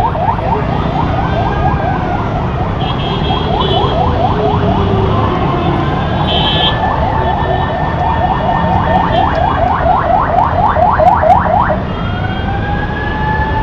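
Emergency vehicle siren in traffic, cycling through rapid rising yelps, several a second, that quicken near the end before switching to a slow rising wail about twelve seconds in. A steady low rumble of road traffic runs underneath.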